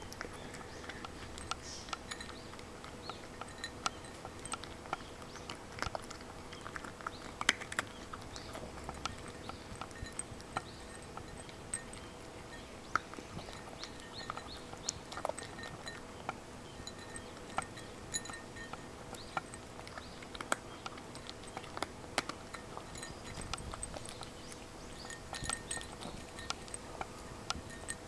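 Cat eating dry kibble: scattered, irregular crunches.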